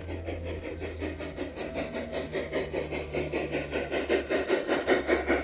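Model train running along its track: the wheels click over the rail joints in a quick, even rhythm of about four or five a second over a steady low motor hum, growing louder as it comes nearer.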